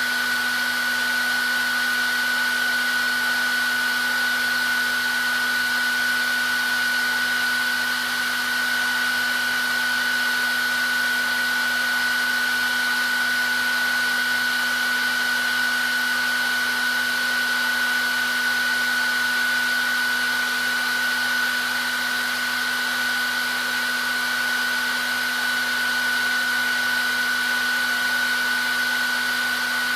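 Hair dryer running steadily, an even rush of air with a constant high whine from the fan motor and a lower hum beneath it.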